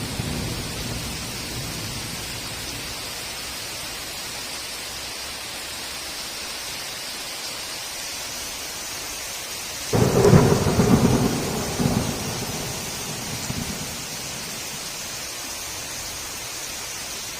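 Steady heavy rain, with a sudden clap of thunder about ten seconds in that rolls away over the next few seconds. The end of an earlier rumble fades in the first moments.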